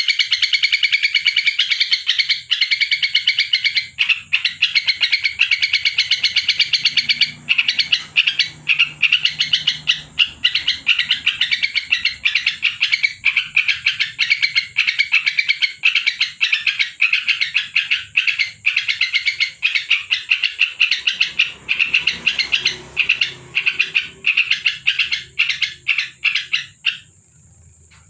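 Yellow-vented bulbul (trucukan) singing a fast, unbroken chatter of rapid high notes, breaking into looser bursts partway through and stopping about a second before the end.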